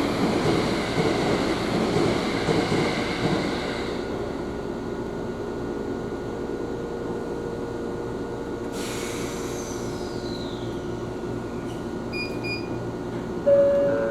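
Electric commuter train running on the line, heard inside the car, just after pulling out of a station. The running noise is louder for the first few seconds, then settles quieter and steady. A short chime-like tone sounds near the end.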